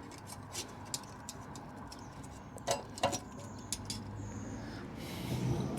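A few light clicks and metallic taps, two sharper knocks about three seconds in, from exhaust parts and hand tools being handled during a motorcycle exhaust fitting.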